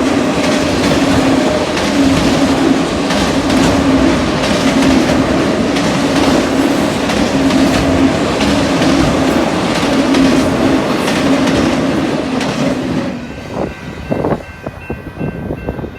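Autorack freight train cars rolling past close by: a loud steady rumble with wheels clicking over the rail joints. About thirteen seconds in the train noise drops away, leaving gusts of wind and faint high steady tones.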